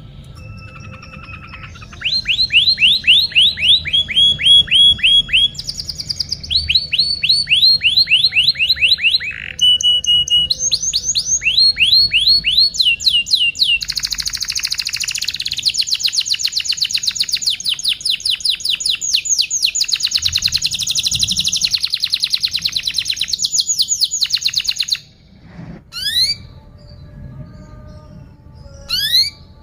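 Domestic canary singing a long continuous song: a chain of rapid trills, each a fast run of identical notes held for a second or two before switching to another pitch, with a dense rolling trill in the middle. The song stops abruptly a few seconds before the end, leaving a few short rising chirps.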